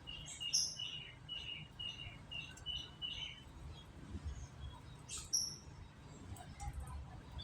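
Canary chirping: a quick run of short repeated notes for about three seconds, then a few scattered higher calls.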